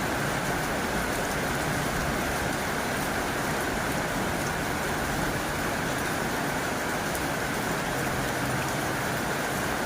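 Heavy rain drumming steadily on a tin roof: a dense, even hiss of drops with a few sharper drop ticks.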